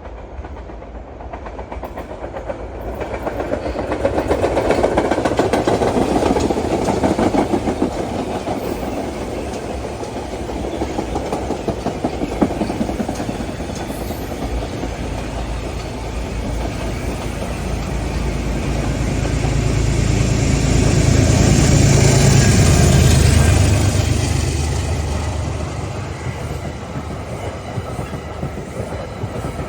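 Metro-North M3A electric commuter train passing, its wheels rumbling and clattering on the rails, loudest about five seconds in. From about eighteen seconds a P32AC-DM locomotive comes by, its engine a low drone that swells, peaks a few seconds later and fades.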